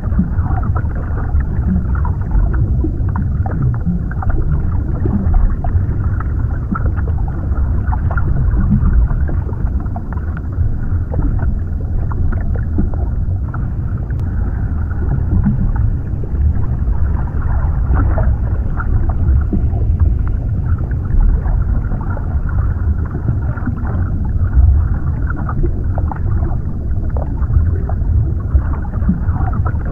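Underwater ambience: a steady low rumbling wash of water with scattered small gurgles and crackles, as heard from beneath the surface.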